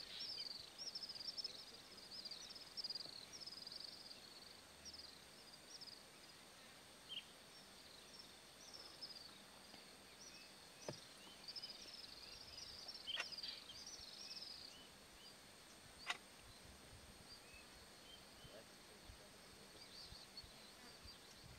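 Faint bird chirps: runs of short, high, downward-sliding chirps, over a steady high hiss. A few sharp clicks come about 11, 13 and 16 seconds in.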